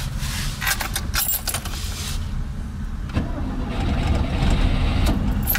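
VAZ 2101's four-cylinder petrol engine being started: the starter cranks for about three seconds, then the engine catches and runs.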